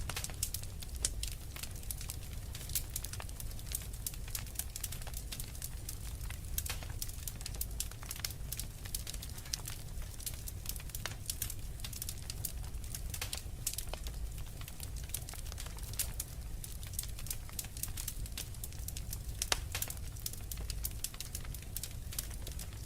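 Fireplace fire crackling: many small, irregular pops and snaps over a low steady rumble.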